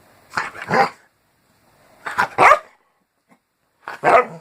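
A dog barking three times, short sharp barks spaced about a second and a half apart.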